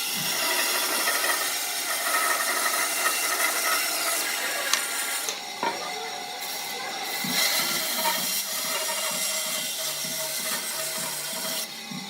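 A power tool working wood: a steady rasping noise that drops away briefly about five and a half seconds in, then starts again.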